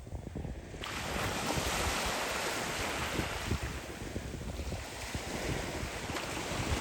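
Sea surf on a sandy beach: a wave breaks about a second in and washes up the shore, with wind rumbling on the microphone.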